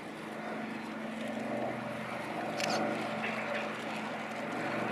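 Douglas Dakota's twin Pratt & Whitney Twin Wasp radial engines droning steadily, growing louder as the aircraft approaches.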